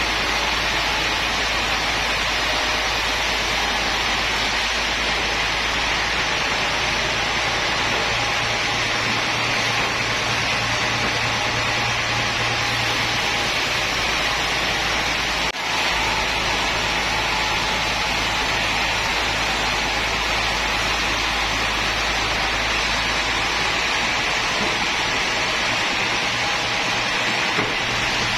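Woodworking machinery running steadily: a loud, even noise with a low motor hum underneath, broken by a brief dip about 15 seconds in.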